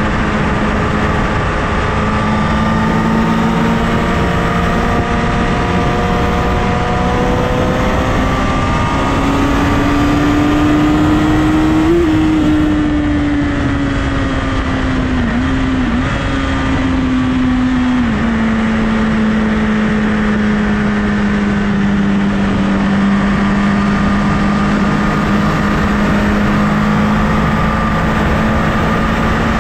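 Honda CBR1000RR inline-four engine cruising at highway speed under steady wind rush. Its note climbs gradually to about twelve seconds in, dips briefly a few times between fifteen and eighteen seconds in, then holds steady.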